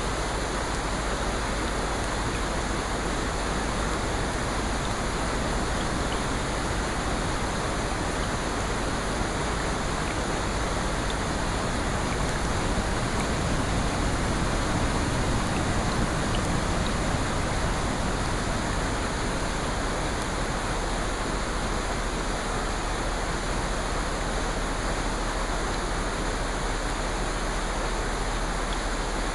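Steady rushing water noise, swelling slightly for a few seconds around the middle.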